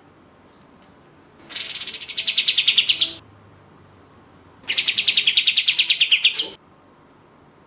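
Kapas tembak (katem) songbird singing two fast trills of rapidly repeated notes, each under two seconds long. Each trill starts high and drops in pitch before holding steady.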